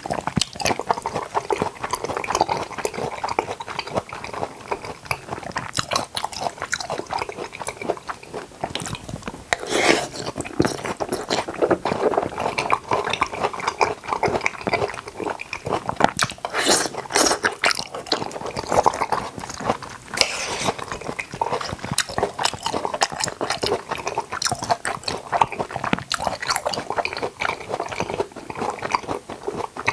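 Jackfruit being chewed close to the microphone: continuous wet, squishy chewing and lip-smacking with dense, irregular clicks.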